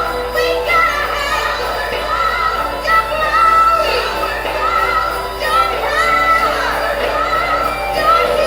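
Song playing: a woman singing with instrumental accompaniment.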